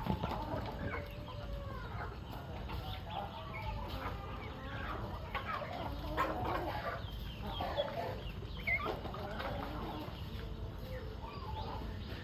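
A flock of chickens clucking, many short overlapping calls with no break.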